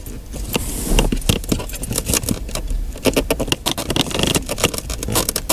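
Wiring harness connectors and the plastic head unit being handled and plugged in while connecting a car stereo: rapid, irregular clicks, rattles and scrapes.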